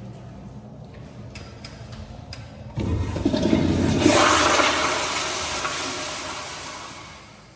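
Toilet flushing: a sudden rush of water starts about three seconds in, is loudest a second later, then drains away and fades out near the end.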